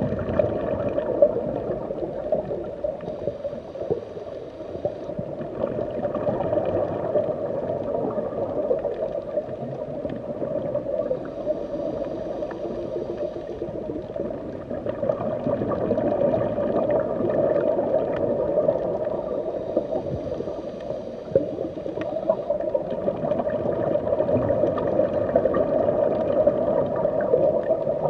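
Underwater ambience: a continuous, muffled wash of bubbling and gurgling water, steady with slow swells in level.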